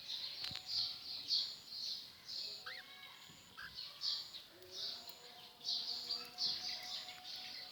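Birds chirping, a steady stream of short high-pitched chirps several times a second, with a few brief rising whistles.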